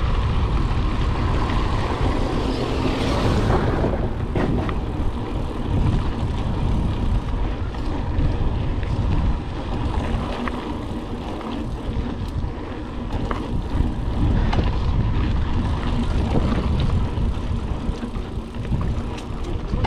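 Merida mountain bike riding fast over a rough dirt road: wind buffeting the microphone in a steady low rumble, with the bike's frame and parts clattering and knocking over the bumps.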